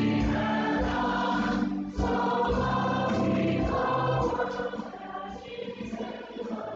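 Church worship music: a choir singing with instrumental accompaniment, sustained chords over low bass notes, becoming quieter about four seconds in.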